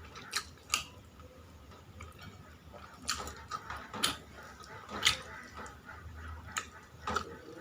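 Eating sounds at a meal: about seven irregular sharp clicks and taps, spaced half a second to a second and a half apart, over a low steady hum.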